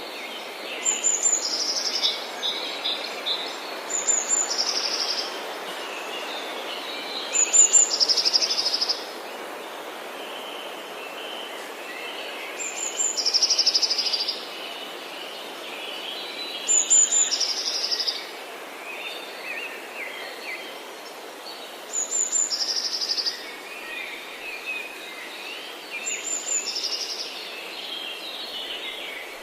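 Forest birdsong: one bird repeats a short high phrase, a clear note followed at once by a quick trill, every few seconds, while other birds chirp more softly. A steady hiss runs underneath.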